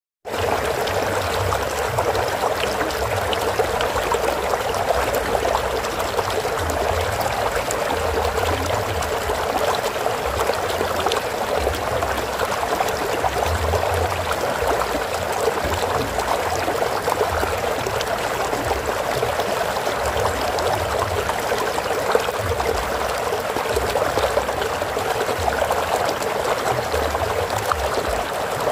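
Flowing water running steadily, an even rushing and splashing with no pauses.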